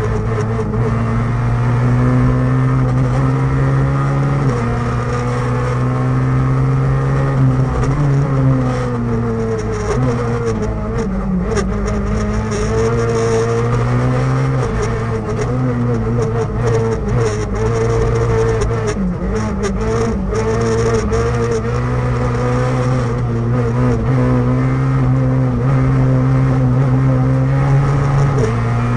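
Rally car engine heard from inside the cockpit at stage pace, revs held high and dropping and climbing again several times as the driver shifts and slows for corners, with the deepest dip about ten to twelve seconds in.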